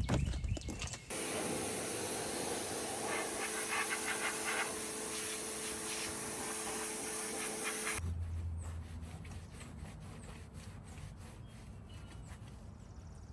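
A steady hissing spray with a motor's hum under it starts about a second in, after a few clicks, and cuts off suddenly after about seven seconds, leaving a faint low hum.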